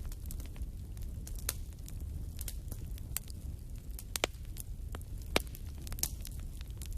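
Wood fire burning in a fireplace: a steady low rumble with irregular crackles and pops, two sharper pops about four and five seconds in.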